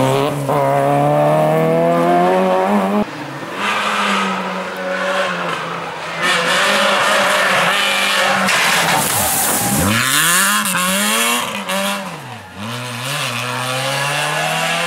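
Rally car engines at full throttle on a stage. The revs climb steadily, the sound changes abruptly about three seconds in, and later the revs drop and surge sharply several times, as on lifts, braking and downshifts.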